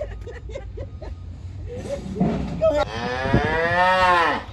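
A person's long, loud drawn-out vocal cry, rising then falling in pitch, lasting about a second and a half near the end.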